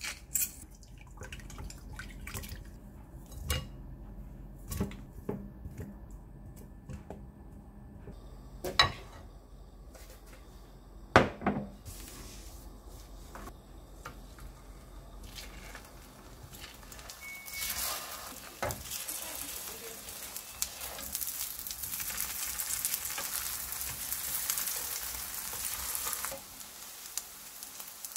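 Kitchen utensil sounds: scattered taps and knocks against bowl and pan, two of them sharper and louder. Then, about halfway through, egg-coated sausage slices sizzle in hot oil in a frying pan. The sizzling runs for about eight seconds and stops shortly before the end.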